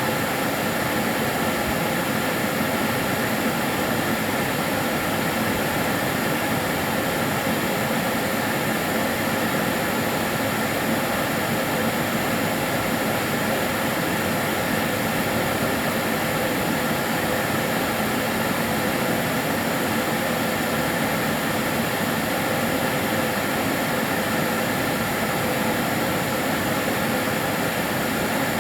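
Karcher DS 6 Premium water-filter vacuum cleaner running steadily: an even, unchanging rushing hiss with a faint steady hum.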